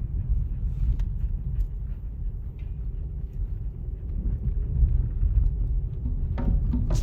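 Low, steady rumble of a car driving. Drum-backed music starts near the end.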